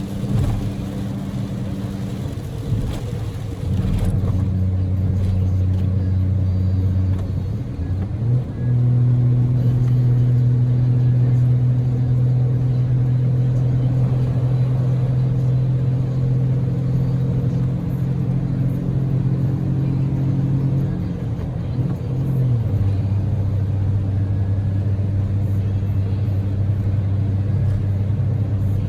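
Daihatsu Move L150S's 660 cc three-cylinder EF-VE engine running at steady cruising speed, heard inside the cabin over road noise. Its drone drops in pitch about four seconds in, rises about eight seconds in, and drops again about twenty-two seconds in.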